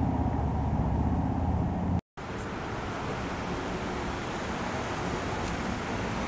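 A Dodge Charger police car's engine running with a steady low rumble close by. After a short break about two seconds in, steady road traffic noise.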